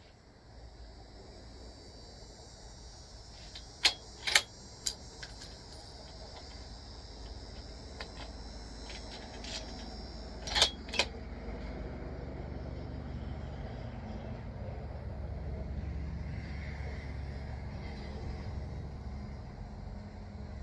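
Sharp metallic clicks and clinks in two clusters, three about four seconds in and two more about six seconds later, with a faint metallic ringing, over a low rumble that grows louder in the second half.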